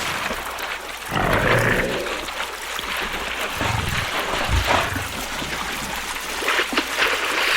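An animal's call, loudest about a second in, over a steady rushing hiss.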